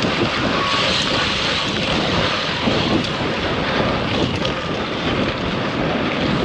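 Wind rumbling and buffeting across the microphone, a steady rushing noise.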